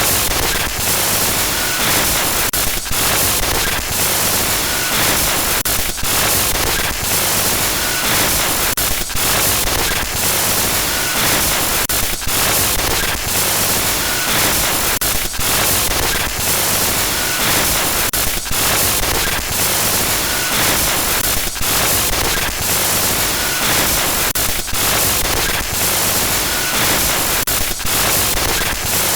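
Glitch-noise horror sound effect: loud, harsh static hiss across all pitches, broken by brief stuttering dropouts every second or so.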